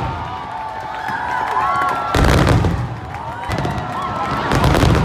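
Aerial fireworks bursting: two loud volleys of deep booms with crackling, about two seconds apart, over the murmur of a watching crowd.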